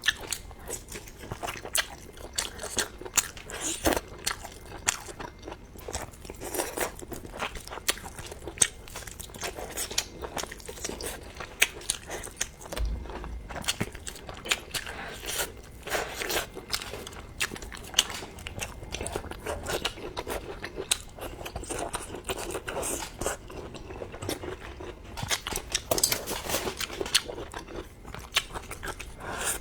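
A person eating: biting, crunching and chewing food, with many short, irregular crunches and mouth clicks.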